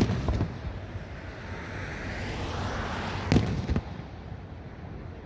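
Fireworks shells bursting: two sharp bangs about three seconds apart, one right at the start and one a little after three seconds in, each followed by a brief crackle.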